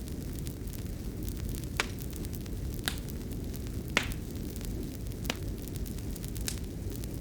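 Fireplace fire burning with a steady low rumble and five sharp crackling pops, about one a second, the loudest about four seconds in.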